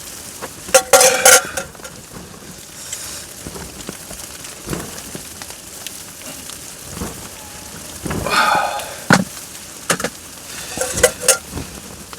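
Metal cookware and utensils clattering in short bursts, about a second in, around eight seconds in and again near the end, over a steady hiss.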